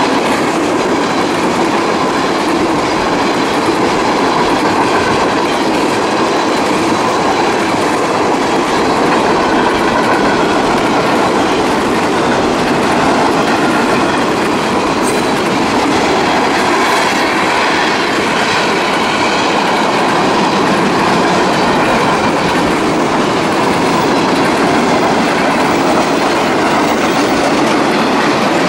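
Cars of a CSX manifest freight train rolling past at speed: a steady, loud clatter of steel wheels on the rails.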